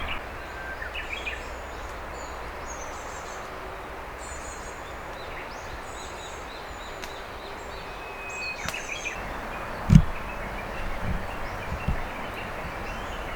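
Riverbank ambience: a steady rush of flowing water with small birds chirping now and then. A single dull thump about ten seconds in, followed by a couple of softer knocks.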